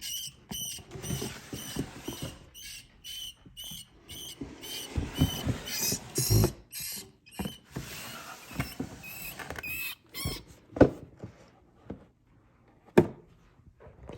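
Rat squeaking in distress, a run of short high squeaks repeated every fraction of a second, as it is seized by a feeding snake. The squeaks stop about ten seconds in, and two sharp knocks follow.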